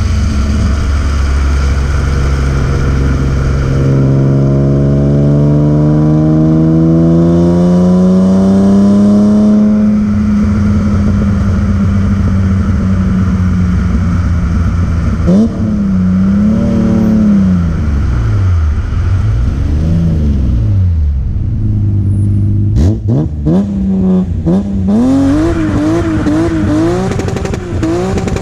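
BMW E36 M3's straight-six (S50B30) engine and exhaust under hard driving. It pulls up steadily through the revs for several seconds and holds, then rises and falls in pitch again and again as the throttle is worked. A few sharp clicks come about two-thirds of the way through, and the revs waver quickly up and down near the end.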